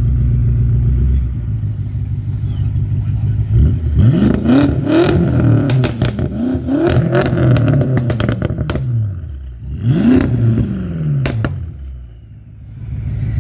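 A car engine idling, then revved hard several times in quick succession, with the exhaust popping and crackling between revs. After a short drop, it is revved once more with another sharp pop.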